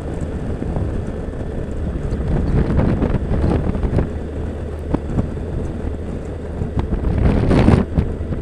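Wind rushing over the microphone on a moving motorcycle, over the steady low drone of a Yamaha FJR1300ES sport-touring bike's engine at cruising speed. The wind swells about three seconds in and again near the end.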